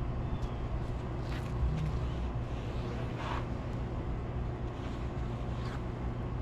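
Steady low hum of an idling truck engine, with a couple of faint brief scuffs about one and three seconds in.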